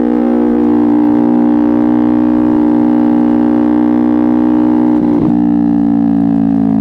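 Kawasaki Ninja 250R's parallel-twin engine and exhaust running at steady revs under way. About five seconds in there is a brief break and the pitch drops a little, and another break comes at the very end.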